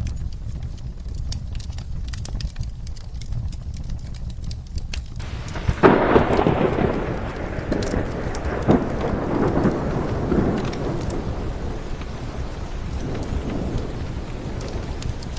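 Steady rain with a fireplace crackling, then about six seconds in a sudden thunderclap breaks and rolls away over the next several seconds.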